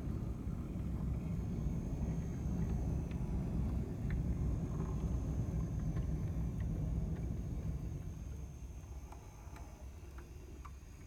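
HO-scale brass model streetcar with a Faulhaber coreless motor running along the track: a steady low rumble of wheels on rail with scattered light clicks, fading away from about eight seconds in.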